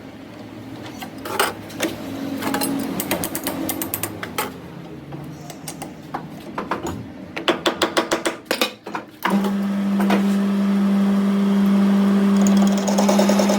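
Metal tools and parts clinking and knocking, with a quick run of rapid taps, then an electric power tool starts about nine seconds in and runs with a steady hum, a harsher high sound joining it near the end.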